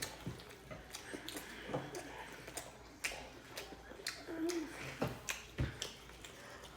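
People eating at the table: chewing and mouth noises with scattered small clicks and taps, and a brief faint murmur about two thirds of the way through.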